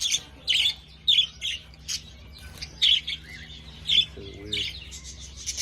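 Budgerigars chirping in a run of short, sharp calls, about two a second.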